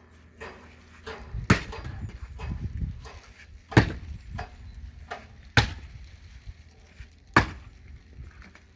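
Axe splitting firewood: four heavy blows about two seconds apart, with lighter knocks of wood between them.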